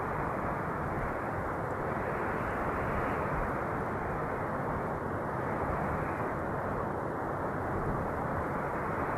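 Steady rushing wind: a dull, dense noise that swells and eases slightly every few seconds.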